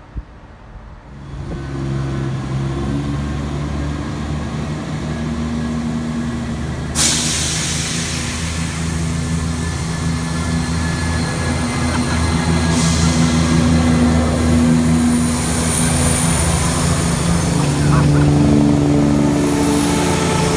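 Diesel train engine running loud and close, with a steady low drone. A sudden loud hiss of air comes in about seven seconds in and carries on over the engine.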